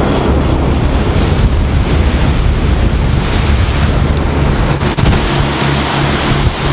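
Twin-diesel motor cruiser under way: rushing water and wind buffeting the microphone over a low engine drone, which turns into an even pulsing throb near the end.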